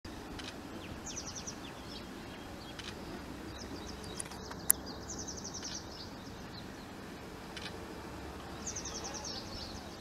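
Birds chirping in quick high-pitched runs, three short bursts of rapid notes, over steady background noise. A single sharp click comes about halfway through.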